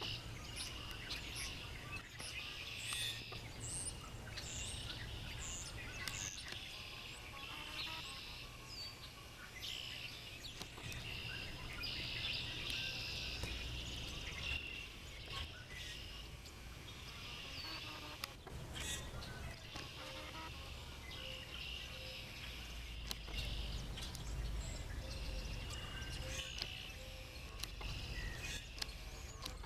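Several wild birds chirping and singing on and off, with many short calls overlapping, over a steady low rumble of background noise.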